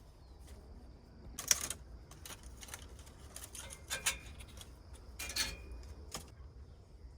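A few short, sharp clatters of hard objects knocking together, the loudest about one and a half seconds in and others near four and five and a half seconds, over a faint steady high-pitched hum.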